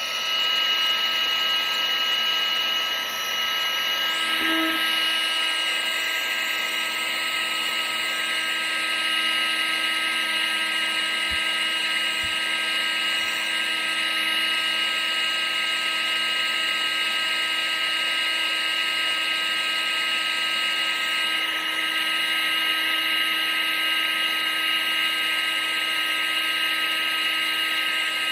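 Vacuum cleaner running steadily: a constant motor whine over rushing air, with no change in speed.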